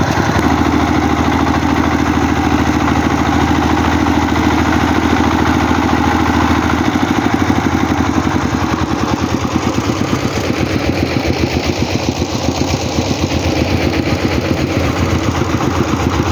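Công nông farm truck's single-cylinder diesel engine running continuously with a fast, even firing beat; its low tone shifts about seven seconds in.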